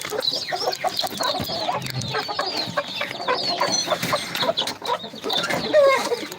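A flock of birds calling over one another, a dense jumble of short high chirps and lower clucking notes with no pause.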